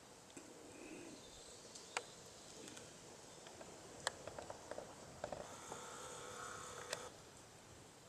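Footsteps on a forest path: scattered light crunches and clicks, with a quick run of them about halfway through, over faint woodland background.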